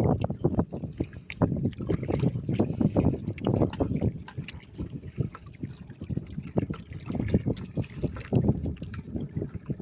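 Water splashing and sloshing against a small boat, uneven and irregular, with scattered light knocks.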